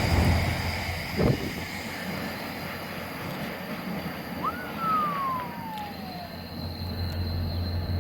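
Rumble of a train passing on the Northeast Corridor, dying away, with a single knock about a second in. About halfway through, one clear whistle-like tone rises quickly and then slides down for nearly two seconds.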